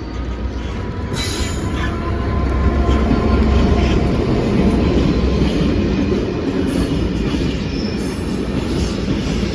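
Class 66 diesel freight locomotive, with its two-stroke V12 engine, hauling a train of JIA clay wagons past: a heavy engine rumble that builds over the first few seconds and then holds steady, with wheel-on-rail noise from the wagons.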